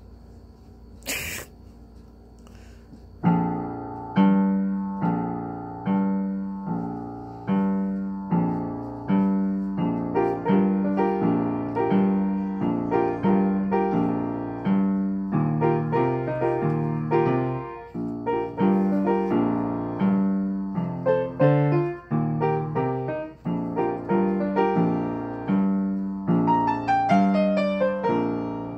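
A child playing a boogie-woogie piece in B-flat on piano: a steady, repeating left-hand bass pattern with a melody above it. It starts about three seconds in, after a brief knock.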